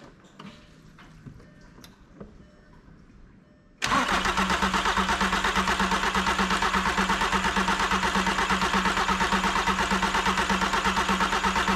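VW Transporter T5 five-cylinder diesel turned over on its starter motor. The cranking starts abruptly about four seconds in and runs with a steady, rapid, even pulse without the engine catching. The diesel has not yet reached the injectors; the owners think the fuel system has lost its prime.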